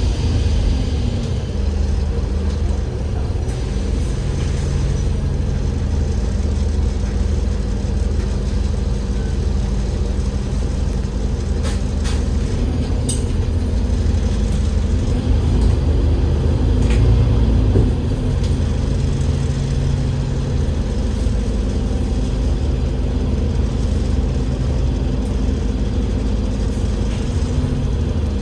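Alexander Dennis Enviro500 MMC double-deck bus on the move, its Cummins L9E diesel engine and ZF Ecolife automatic gearbox giving a steady low drone whose pitch shifts as the bus changes speed. The drone grows louder for a few seconds past the middle. A few short rattles or clicks come through near the middle.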